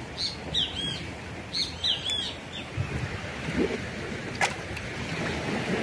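A small bird chirping: two quick runs of short, high calls in the first two seconds or so, over a steady rush of surf and wind. A single sharp click comes about four and a half seconds in.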